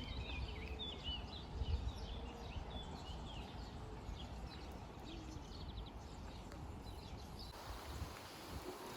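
Small birds chirping and calling in quick short notes, thickest in the first half and thinning out later, over a steady low rumble.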